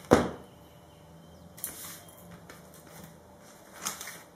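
A single sharp knock at the very start, then faint rustling and handling of small product packaging, with two brief scrapes in between.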